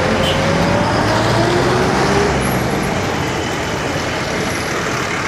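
Road traffic: a motor vehicle's engine running close by over a steady rush of road noise, loudest in the first half and easing off after about two seconds, with a faint rising whine.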